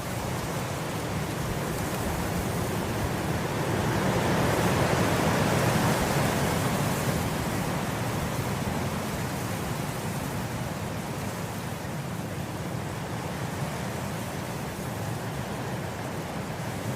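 Wind blowing through grass, a steady rushing that swells into a stronger gust about five seconds in and then eases back.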